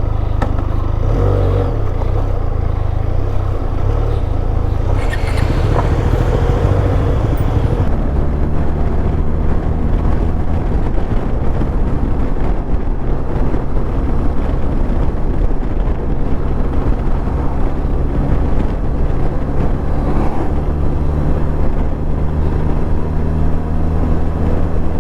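Benelli TRK 502 motorcycle's parallel-twin engine running as the bike rides off. Its pitch shifts over the first several seconds, then holds steady at cruising speed.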